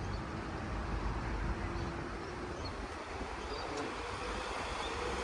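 Sprinter diesel railcar passing through a level crossing: a steady rumble of engine and wheels.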